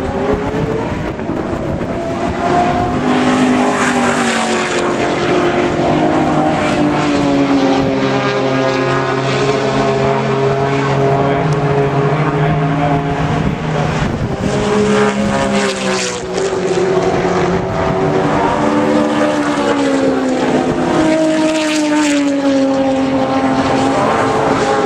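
Historic muscle race cars' engines at racing speed passing one after another on a straight. Their engine notes rise and fall in pitch as each car goes by, with no break in the engine sound.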